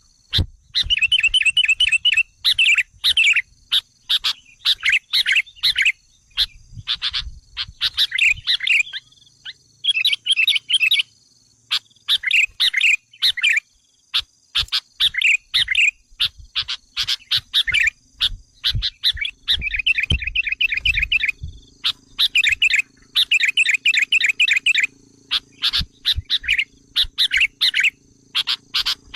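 Sooty-headed bulbuls calling: quick, chattering phrases of short warbled notes, repeated one after another with brief gaps. This is a lure call meant to excite wild bulbuls. A faint steady high tone runs behind.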